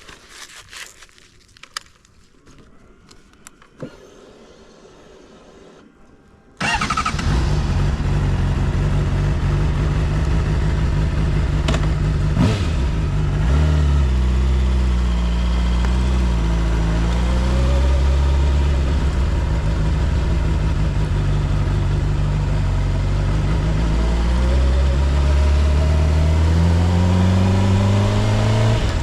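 A few faint clicks and rustles, then a motor starts abruptly and runs with a loud, steady low hum, its pitch dipping and rising again twice.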